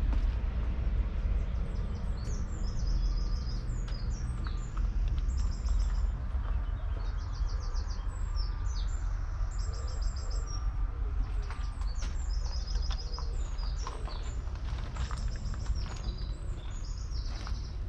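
Small birds singing, with short, rapid high trills repeated every second or two, over a steady low rumble.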